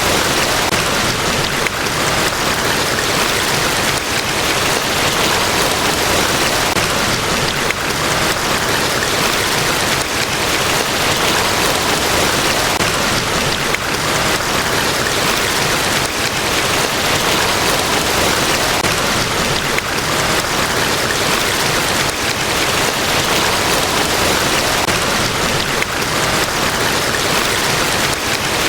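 Niagara Falls' large waterfall rushing: a loud, steady, even roar of falling water with no breaks or changes.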